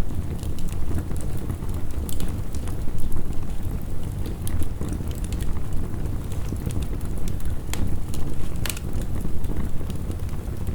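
Wood fire crackling with scattered sharp pops, over a steady low rush of heavy rain.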